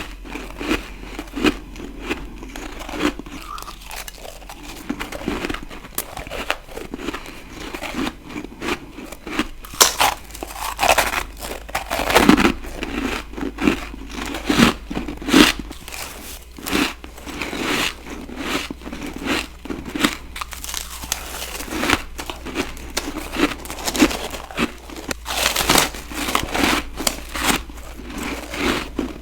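Close-miked biting and crunching of ice: an irregular run of crisp crunches, some louder bites standing out, with chewing between them.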